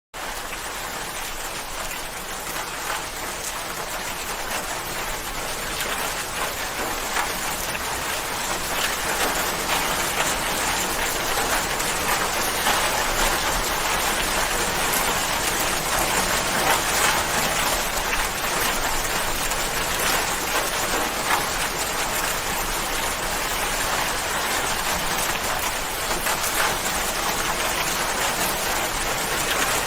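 Steady rainfall with dense pattering drops, fading in at the start and building to a constant level within the first ten seconds or so.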